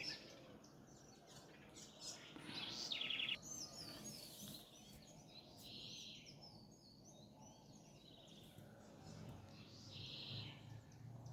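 Faint dawn birdsong: several birds chirping and trilling, with a rapid trill about three seconds in.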